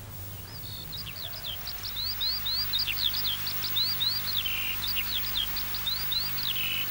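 A songbird singing a long, unbroken run of quick, high chirping notes, each one a fast slide up or down in pitch, starting about half a second in.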